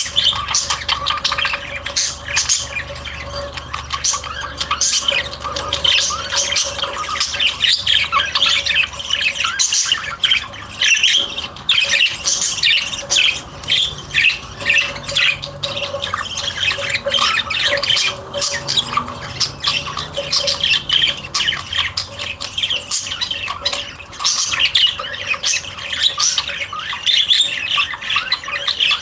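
Many kept birds chattering and squawking together, short calls overlapping without a break, over a faint steady hum.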